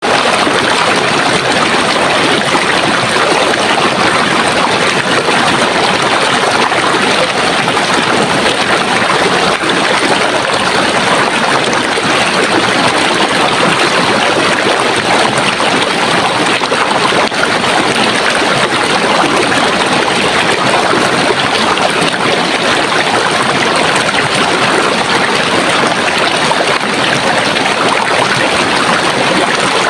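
Running water from a stream, a steady rushing and gurgling flow with no let-up.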